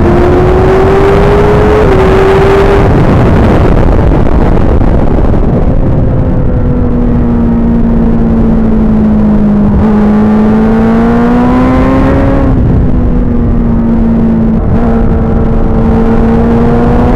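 Suzuki GSX-R1000 inline-four engine running hard at high revs, under a constant rushing noise. Its pitch climbs through the first two seconds and drops at a gear change. It then holds fairly steady, rises again and drops at another shift about twelve seconds in.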